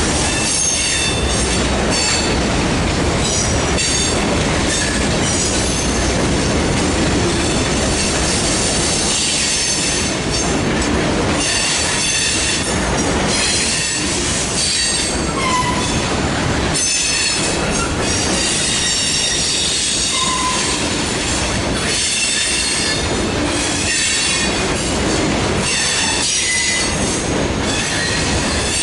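Freight train rolling past, its wheels squealing in high tones that come and go over a steady rumble and the clatter of the cars.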